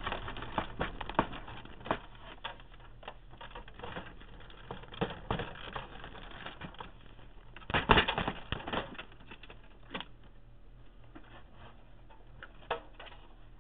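Irregular plastic clicks, knocks and rattles from a Canon Pixma MP-780 printer's plastic housing as it is handled and worked apart by hand, with a louder cluster of knocks about eight seconds in.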